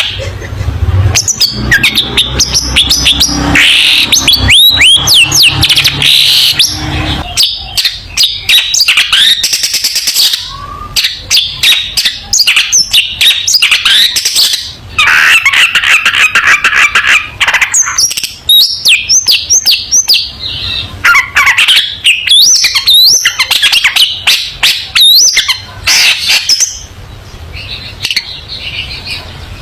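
Long-tailed shrike in full song: a rapid, varied run of chirps, rising whistled notes and clicks, with a harsh buzzing stretch about halfway through.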